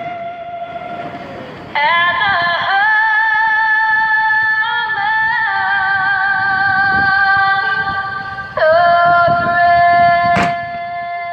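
A singer, likely female, performs the closing lines of the national anthem, holding long sustained high notes that slide to a new pitch twice. A sharp bang about ten seconds in, typical of a firework going off as the anthem ends.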